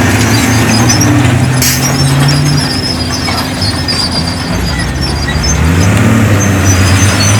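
Heavy diesel engine of earthmoving machinery running under load, its note dropping about two and a half seconds in and rising again near six seconds. Thin, high squeaks run over it.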